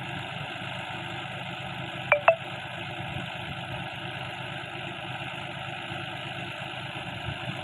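John Deere 5045 tractor's diesel engine running steadily with the round baler in tow, with two sharp metallic clinks a fraction of a second apart about two seconds in.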